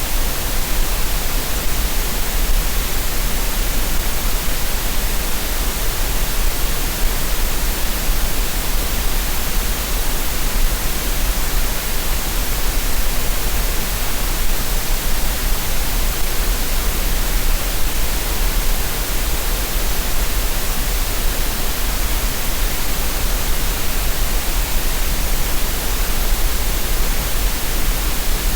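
Synthetic green noise: a steady, even hiss with no changes, made as a masking sound for relaxation and tinnitus relief.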